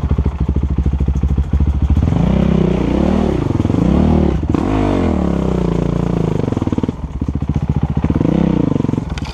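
Dirt bike engine chugging at low revs, then revving up and down again and again as the throttle is opened and closed over rough ground.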